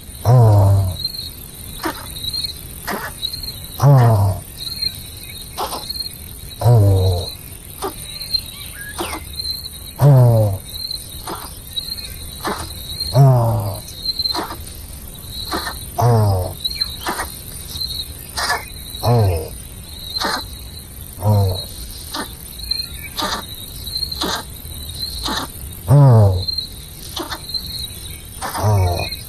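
Crickets chirping steadily. A loud call that slides down in pitch repeats about every three seconds over them, and is the loudest sound.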